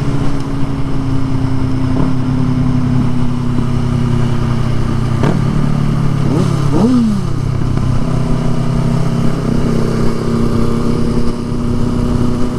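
Motorcycle engine running at a steady pitch, with a brief rise and fall in pitch about six to seven seconds in.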